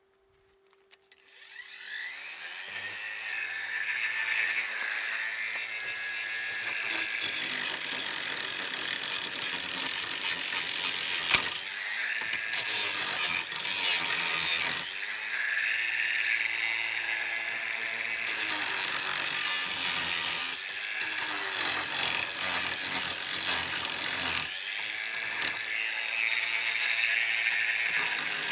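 An electric power tool working wood: its motor spins up about a second in and then runs continuously with a loud rasping cut, the motor note sagging and recovering several times as it bears on the wood.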